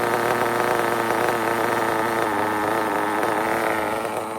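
RB sealed-backplate CE nitro engine of an RC drag car running, a steady engine note that wavers slightly and grows quieter near the end. The driver judges the engine to be running a little lean toward the end of its tank.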